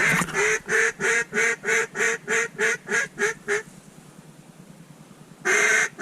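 A duck call blown in a fast, evenly spaced string of about a dozen loud quacks, roughly three a second; it pauses for a couple of seconds, then starts again near the end.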